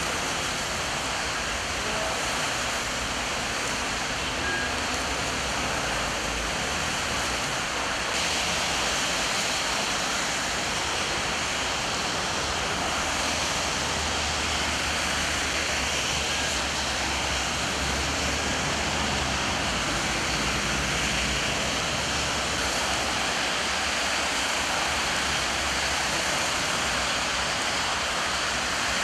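Heavy rain falling steadily, a continuous hiss that gets slightly louder about eight seconds in.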